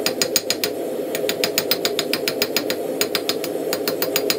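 Hand hammer striking a red-hot steel rod on an anvil in quick, even blows, about six a second, with two short breaks. A steady low hum sounds underneath.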